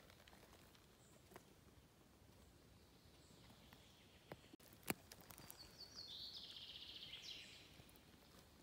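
Quiet forest ambience in which a small songbird sings a rapid, high trill for about two seconds in the second half. A few sharp clicks stand out, the loudest just before the trill begins.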